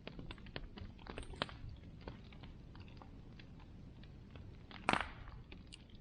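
Bonfire crackling: irregular sharp snaps and pops over a low steady rush, with one louder pop about five seconds in.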